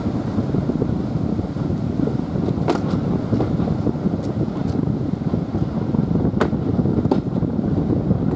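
Train running along the track, heard from the cab: a steady low rumble and rattle, with a few sharp clicks or knocks now and then.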